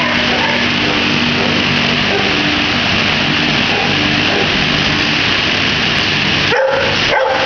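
Many kennelled shelter dogs barking and yelping at once in a steady, loud din. A few sharper barks stand out near the end.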